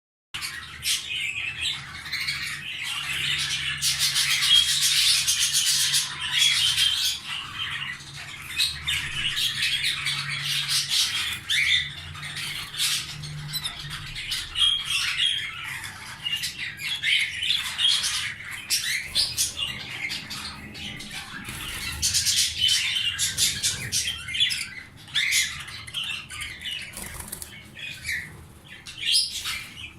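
Domestic canaries singing and chirping almost without pause, in rapid trills and sharp chirps, over a faint low hum that stops about halfway through.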